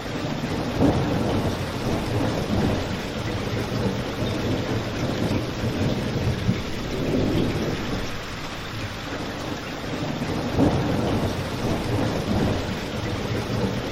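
Steady heavy rain, with a low rumble that swells and fades every few seconds. There are a couple of brief sharper pops, about a second in and again near eleven seconds.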